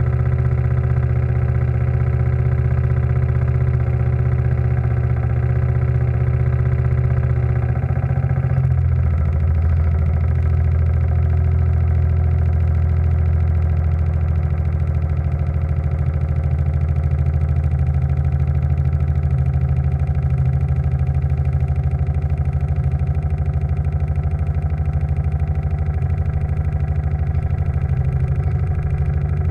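Steam launch's steam engine running steadily. About eight and a half seconds in, its running note drops lower and then holds at the new pitch.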